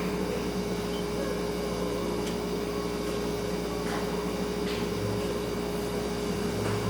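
Refrigerator humming steadily in a small kitchen, holding one constant tone over a low hum, with a few faint ticks.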